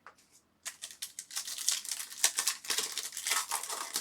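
Crinkling and tearing of a foil trading-card pack wrapper as it is ripped open and handled, a dense crackly rustle that starts about half a second in.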